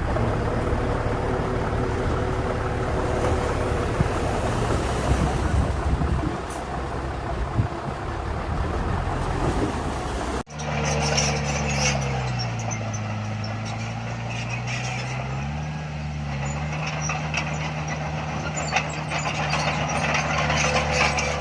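Heavy diesel earthmoving machinery running under load with a dense rumble. After a sudden cut about halfway, an engine's pitch sags for a few seconds and comes back up, with clanking and rattling over it.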